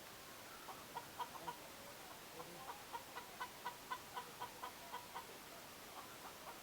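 Layer hens clucking faintly: a run of short, evenly spaced clucks at about four a second through the middle, with scattered clucks before and after.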